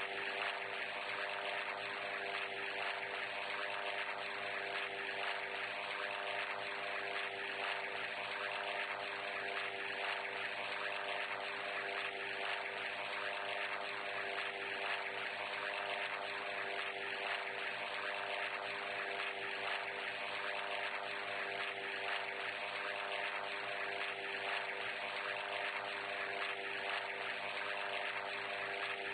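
Aircraft engine running at a steady drone, unchanging throughout.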